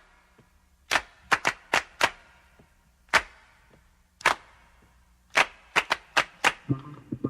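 A series of about a dozen sharp clicks at irregular intervals, some in quick runs, over a faint low hum.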